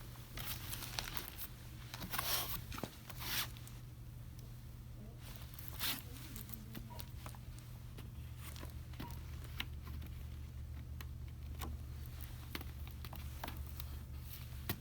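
Shop ambience: a steady low hum with a few short rustling swishes in the first six seconds, the loudest a little after two seconds, and scattered light clicks.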